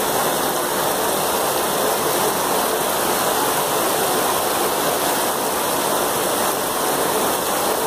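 Heavy rain pouring down in a steady, even hiss, recorded on a phone.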